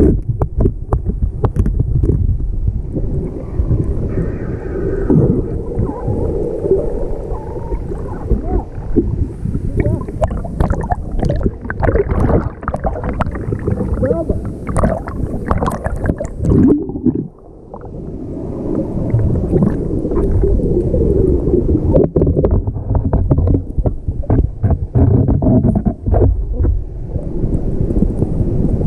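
Waterfall plunge pool heard with the camera underwater: a muffled, deep churning rumble of falling water and turbulence, full of small bubbling crackles, dropping away briefly about two-thirds of the way through.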